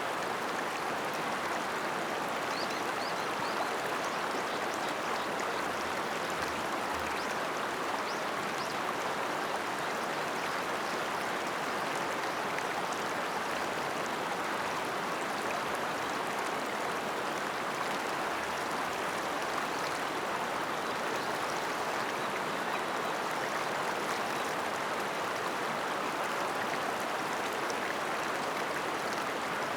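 River water flowing over rocks: a steady rushing that never lets up, with faint splashing ticks.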